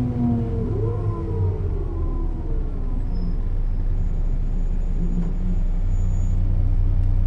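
Setra S 315 UL bus's diesel engine and ZF gearbox running: a whine falls in pitch over the first second as the bus slows, then the engine settles into a steady low hum.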